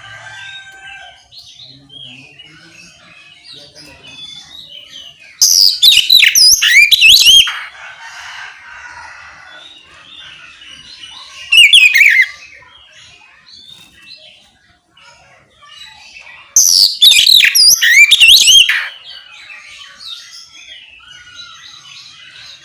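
Oriental magpie-robin (kacer) singing in loud bursts of rapid, varied whistled phrases in the full 'ngeplong' style: three bursts, about two seconds, half a second and two seconds long, with fainter chirps and calls between them.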